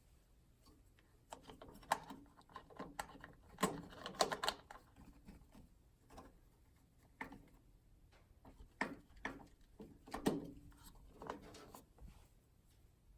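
Clicks and light knocks of an electrical outlet faceplate and its screws being handled and fitted onto a receptacle box, in two clusters with a pause between them.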